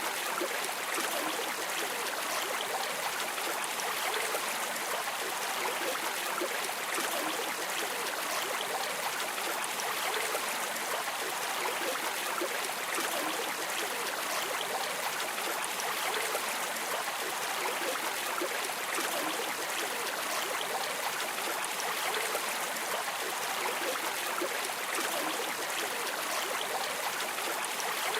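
A river or stream running steadily: an even, unbroken rush of flowing water with no distinct splashes or pauses.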